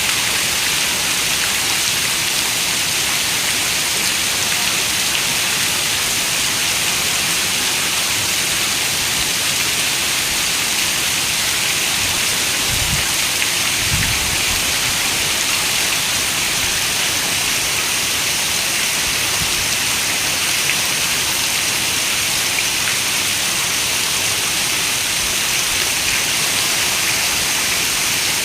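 Steady, even rain hiss, a dense patter of raindrops with no breaks. A brief low rumble comes about halfway through.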